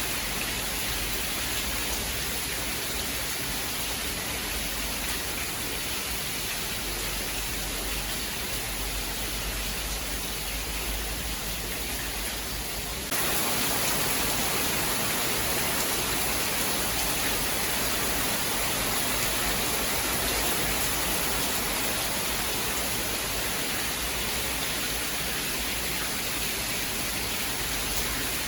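Steady, dense rain hiss with no thunder. About halfway through it abruptly becomes louder and brighter, then stays even.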